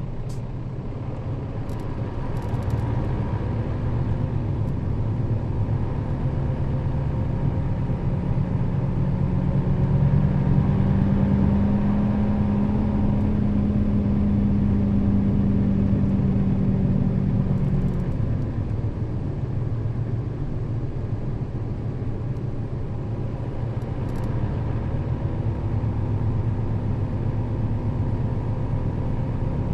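Nissan Diesel KL-RA552RBN bus engine and drivetrain running under way, heard from on board. The engine note climbs about a third of the way in, holds for several seconds, then falls back.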